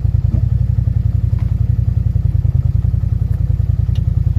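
Vehicle engine running steadily: a low, evenly pulsing rumble.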